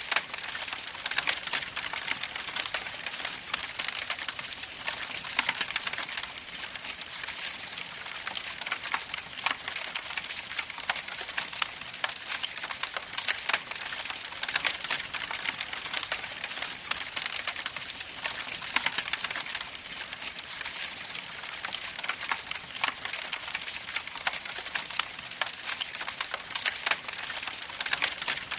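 Campfire burning steadily: wood crackling and popping in a dense, constant stream of small snaps over a soft hiss.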